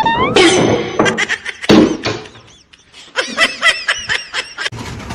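A person laughing: a quick run of short, pitched ha-ha bursts in the second half, after a brief rising voice-like sound at the start.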